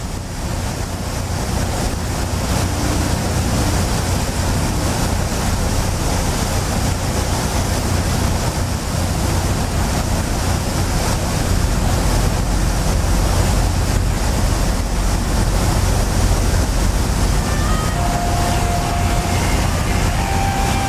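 A double-ended car ferry's engines running steadily with a low rumble, under the wash of water and wind on the microphone. A faint steady tone comes in near the end.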